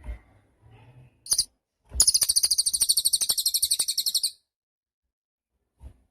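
Cililin songbird singing. A short high chirp comes first, then about two seconds of a rapid, high trill of evenly repeated notes that stops suddenly.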